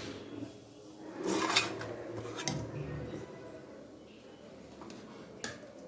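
Kitchen utensils handled against cookware: a brief scraping rush about a second and a half in, then a few sharp clinks.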